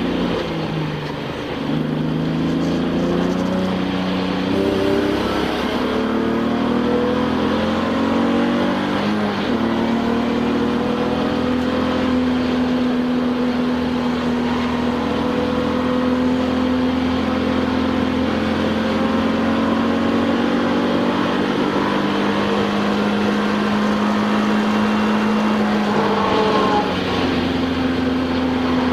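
Touring-class race car engine heard from inside the cockpit. Its pitch falls at the start, climbs in several rising steps that each break off as it shifts up, then holds a high, nearly steady note for a long stretch. Near the end it dips briefly before settling again.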